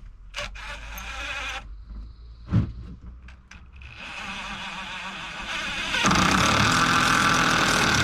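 Power drill running in two bursts, driving screws into the wall framing, the second burst longer and louder; a single knock between them.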